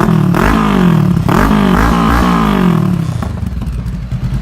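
Honda CBR500R's parallel-twin engine breathing through a new Delkevic 200 mm slip-on muffler, revved twice from idle: a short blip, then a longer rev that sinks slowly back to a steady idle.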